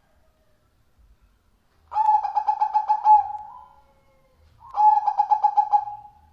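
Zebra dove (perkutut) cooing: two rapid, pulsing coo phrases at one pitch, the first about two seconds in and the second near the end, each about a second and a half long.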